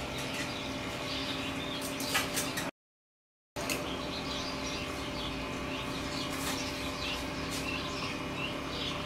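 Small birds chirping over and over over a steady background hum, with a few light clicks of utensils a little after two seconds. The sound drops out completely for under a second about three seconds in.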